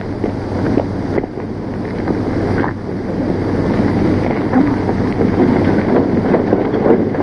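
An old open touring car's engine running as it drives up a dirt road, growing louder as it approaches, under the hiss and crackle of an old film soundtrack.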